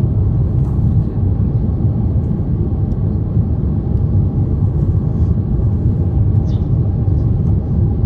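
Steady low rumble of engine and airflow noise inside the cabin of an Airbus A350-900 airliner on its approach to landing.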